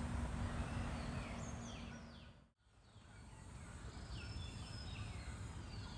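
Faint outdoor ambience with birds chirping: short, quick falling calls over a soft background hiss, which drops out briefly about halfway through and then comes back.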